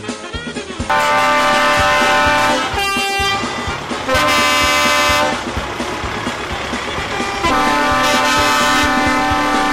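Truck horns blasting in long, steady honks, one after another, with short breaks between them and a brief warbling tone in one of the breaks.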